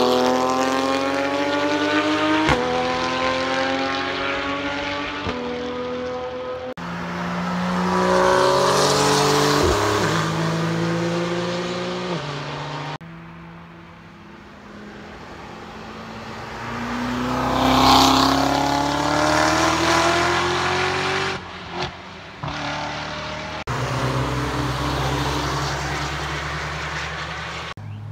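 Several sports cars driving past one after another at speed, engines revving up through the gears with clear upshifts. Each car swells as it passes and fades away, and the sound cuts abruptly between passes.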